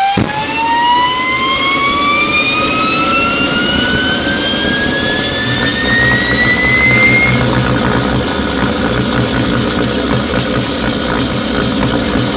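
Homemade turbocharger jet engine running on propane: a steady roar from the burner with a turbine whine that climbs steadily in pitch, then cuts off suddenly about seven seconds in while the roar goes on.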